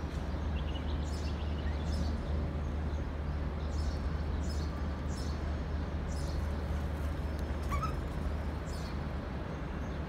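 Small birds chirping in short, high notes every second or so, with a brief rising call near the end, over a steady low hum of background noise.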